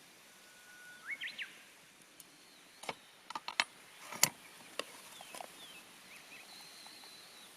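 Campfire crackling with a handful of sharp pops, the loudest about four seconds in. A bird whistles a short note and quick rising chirps about a second in, and a thin high note near the end.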